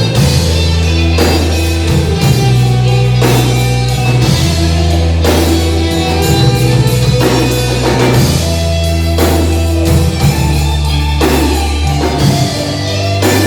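A rock band playing an instrumental passage with no vocals: guitar over a steady drum kit beat and a low line whose notes change every second or two.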